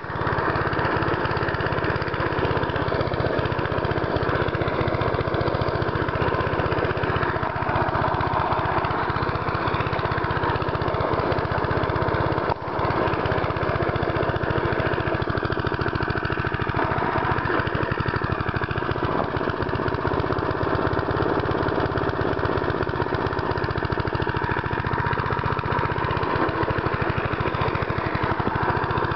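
Small pull-start lawn mower engine running steadily.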